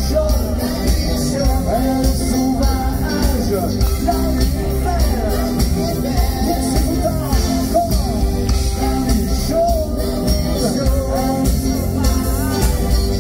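Live pop-rock band playing loud, with heavy bass, a steady drum beat and a wavering melody line over it.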